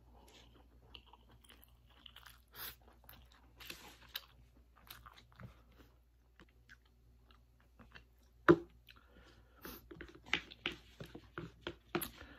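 Close-up chewing of a mouthful of spicy chicken ramen noodles, with wet mouth clicks and smacks. A single sharp knock about two-thirds of the way through is the loudest sound, and the chewing noises come faster and louder after it.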